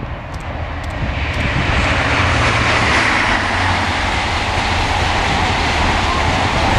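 High Speed Train (HST) with diesel power cars passing at speed: the noise builds over the first two seconds, then holds loud and steady, with an engine hum underneath.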